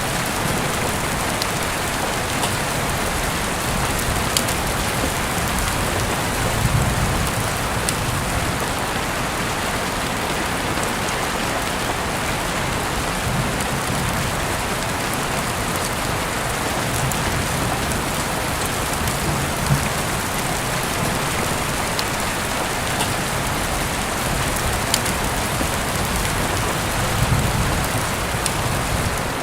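Heavy rain falling steadily, heard through an open window, as a dense, even hiss with scattered sharp drop ticks. Soft low swells rise briefly about a quarter of the way in and again near the end.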